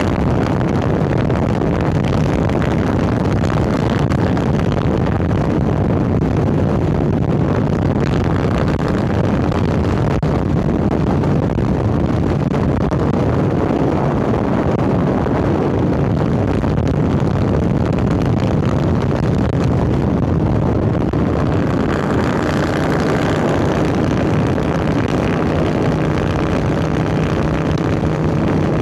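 Harley-Davidson Sportster 1200's air-cooled Evolution V-twin running under way through Vance & Hines Hi-Output Grenades 2-into-2 exhaust, picked up from the rider's shirt collar. Its note evens out to a steadier pitch about three-quarters of the way through.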